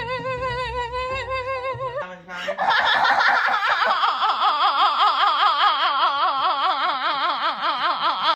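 Car engine cranking on the starter, its whine rising and falling about six times a second so that it sounds like laughter. About two seconds in it breaks off, and a second, lower-pitched and louder cranking laugh takes over.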